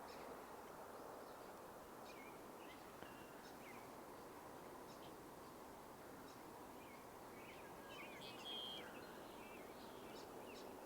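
Faint, scattered short chirps of small birds over a steady background hiss, with a brief cluster of calls about eight seconds in.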